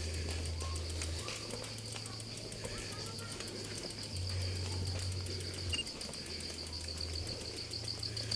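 Insects chirring in a steady high-pitched pulsing chorus, with a low hum underneath that shifts a few times.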